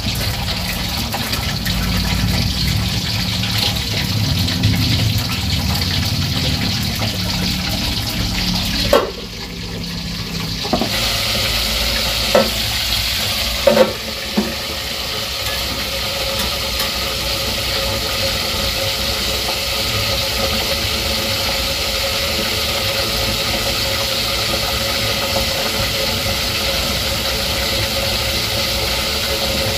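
Food frying in oil in a wok over a gas burner: a steady sizzle. A few sharp knocks come about nine, twelve and fourteen seconds in.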